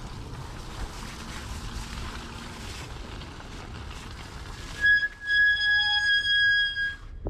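Ice-laden front brake of an electric bike squealing: a loud, high, steady squeal with a brief break, lasting about two seconds and starting about five seconds in, over wind and tyre noise. The squeal comes from ice forming on the brake.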